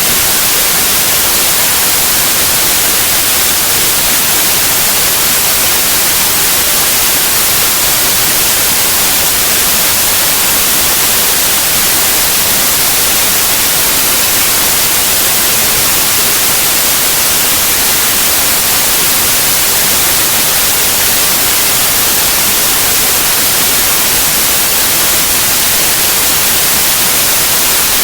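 Steady, loud white noise: an even, unchanging hiss, strongest in the high frequencies.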